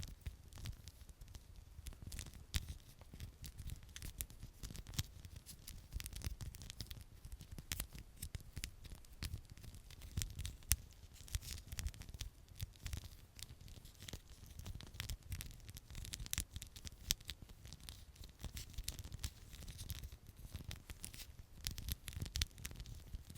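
Close-miked ASMR scalp and hair handling: a dense, irregular run of fine crackles and scratches, over a low rumble.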